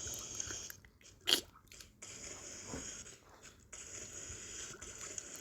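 Faint steady hiss with one short sharp click a little over a second in and a few fainter ticks.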